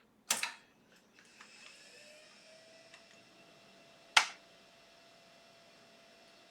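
An old PC's mains power button clicked on, then the computer's fans spin up into a steady whir with a faint whine that rises slightly and holds. A single sharp click about four seconds in.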